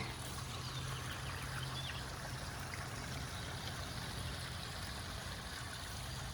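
Steady rain falling in woodland, an even hiss with no single drops standing out, over a low steady hum.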